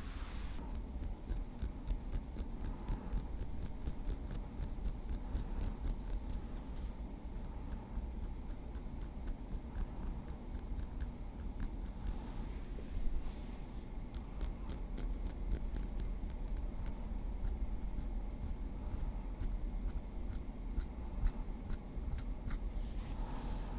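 A small wooden stick tapping lightly in a quick, even run of crisp clicks, several a second, over a faint steady low hum.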